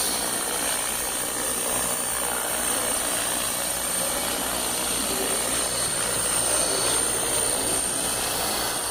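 HK-450 GT electric RC model helicopter in flight: a steady high-pitched whine from the motor and gears over the rushing of the rotor blades.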